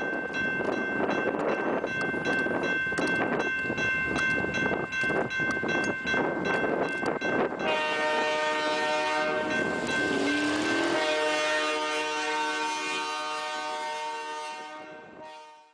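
A train running past, its wheels clicking regularly over the rail joints, with its horn sounding. About halfway through, the horn changes to a fuller, louder chord that holds and then fades near the end.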